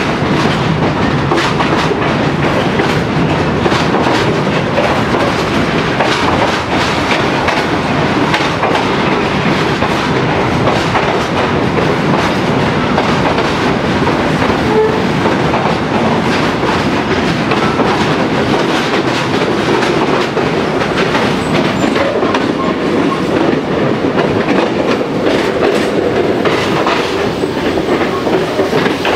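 Passenger train running through a railway tunnel, heard from aboard: a loud, steady rumble of wheels on rail with irregular clickety-clack clicks from the wheels.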